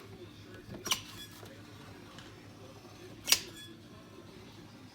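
Caulking gun being squeezed, its trigger clicking twice, about two and a half seconds apart.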